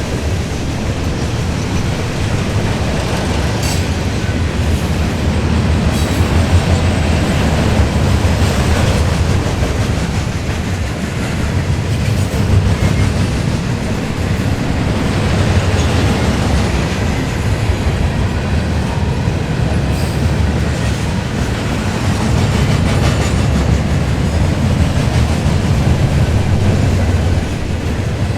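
Freight train of gondola cars rolling past: a steady low rumble of steel wheels on the rails, with clicks as wheels cross rail joints.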